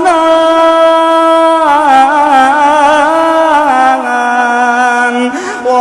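A male reciter's unaccompanied voice in melodic Quran recitation, holding one long drawn-out vowel. The note wavers in ornamented turns about two seconds in, steps down to a lower pitch around four seconds, and fades near the end.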